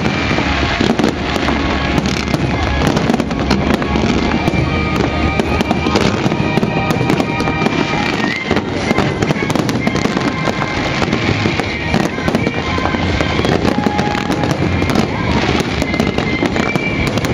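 Fireworks display at close range: a dense, unbroken barrage of booming shells and crackling, with music playing underneath.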